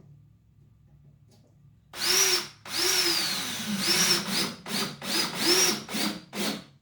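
Cordless drill driver driving screws through a thin luan plywood cover into a wooden frame. About two seconds in, it whirs in a longer burst, then a second long one. These are followed by several short bursts toward the end. The motor whine rises at each start.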